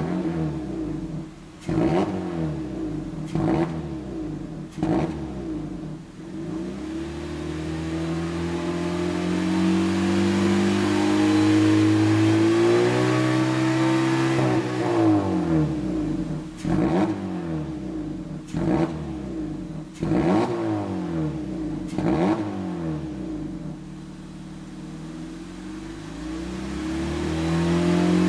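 Exhaust of a Honda Stepwgn RK5 with an order-made front silencer, a straight centre section and a Mugen rear silencer, its engine revved in quick blips. In the middle it is held in a long slow climb to a high rev and let fall. It then gives several more blips, settles to idle and rises again near the end.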